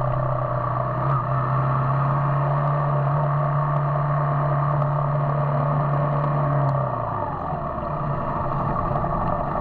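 Yamaha YBR 125 motorcycle's single-cylinder four-stroke engine running at steady cruising revs, its pitch falling about seven seconds in as the bike eases off.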